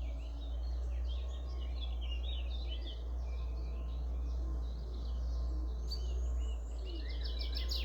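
Chorus of songbirds, many overlapping chirps and short phrases, over a steady low rumble. Near the end a fast run of repeated notes, which the recordist takes for a chaffinch singing.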